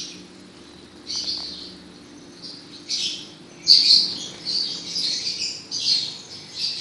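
Birds chirping: a run of short, high calls that begins about a second in, over a faint steady hum.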